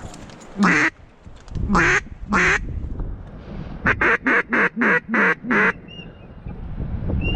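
Loud hen-mallard-style quacks: a single quack, then two more, then a quick run of six evenly spaced quacks. Faint short high chirps follow near the end.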